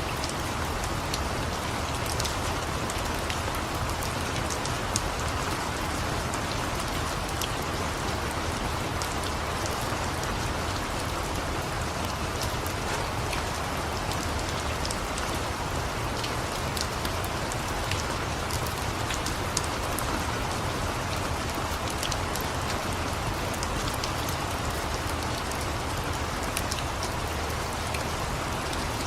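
Steady rain falling, mixed with the scattered sharp crackles of a wood fire.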